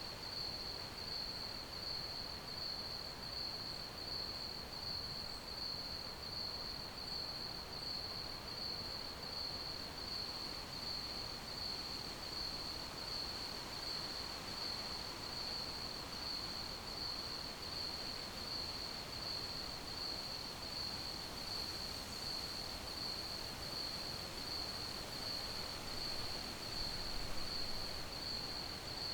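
Crickets chirping: one steady high-pitched trill that pulses evenly, over a soft background hiss.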